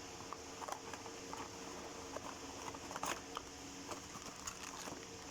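Faint scattered clicks and light handling taps, about one every second, over a steady low hum.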